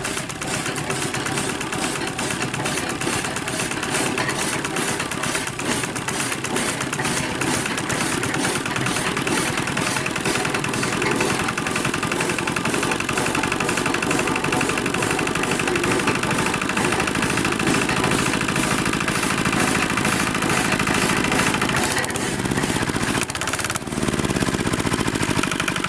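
Mini tractor's small engine running steadily with a fast, even rattle; its pitch shifts about three-quarters of the way through.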